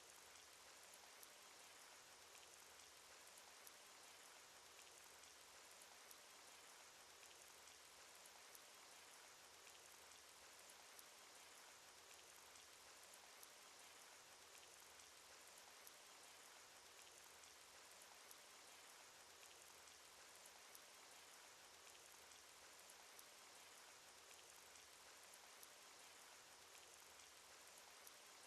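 Faint, steady rain sound effect from a cartoon: an even hiss of rainfall, with a single drop ticking about every couple of seconds.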